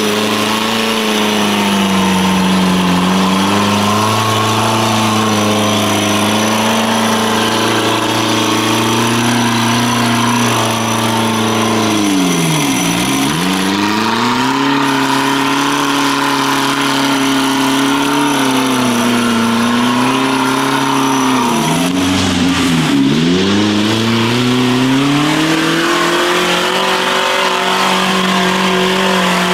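Off-road 4x4's engine held at high revs under throttle. The revs drop sharply and climb straight back once near the middle and twice in quick succession later on.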